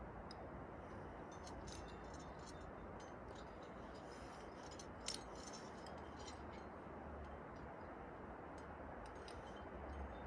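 Faint scattered metallic clicks and clinks of a trad climber's gear rack, one sharper clink about five seconds in, over a steady background hiss.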